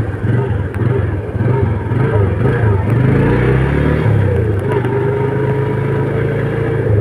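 A motor vehicle's engine running on the move, its pitch rising and falling with the throttle.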